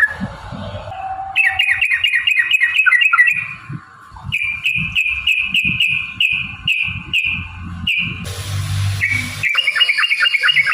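Yellow-vented bulbul (trucukan) singing in fast runs of repeated chirping notes, about six a second, with a slower series of longer, even notes in the middle. Low thumps sound underneath.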